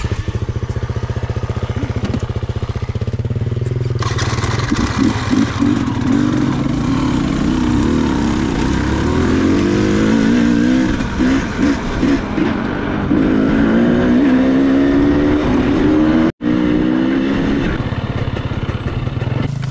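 KTM enduro dirt bike engine running at a steady low idle, then from about four seconds in revving up and down repeatedly as the bike is ridden off-road.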